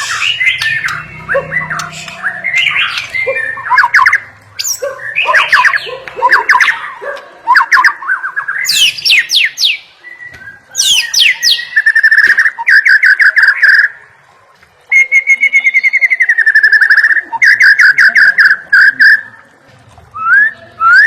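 White-rumped shama (murai batu) singing a varied, loud song of whistled phrases and sweeping notes. It breaks into fast runs of rapidly repeated notes in the second half, with a short pause partway through.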